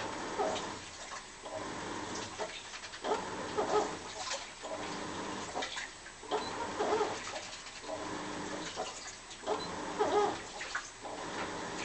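Washing machine mid-wash: water sloshing as the drum or agitator turns, with a wavering, moan-like squeal on each stroke, repeating about every three seconds.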